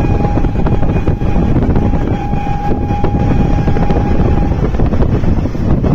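Passenger train running, heard from an open window: a steady rumble of wheels on rails mixed with wind on the microphone. Over it the train's horn holds one steady high note for about four and a half seconds, with a short break about one and a half seconds in.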